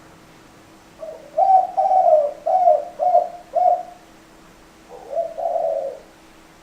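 Spotted dove cooing: a phrase of about five low coos starting about a second in, then a shorter two-note coo near the end.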